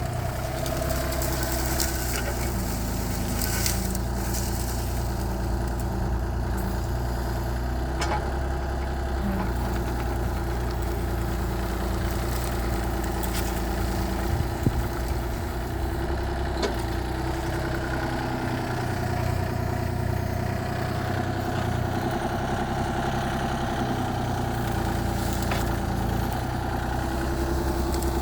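Mini excavator's diesel engine running steadily, with a few sharp knocks and a change in engine note about two-thirds of the way through.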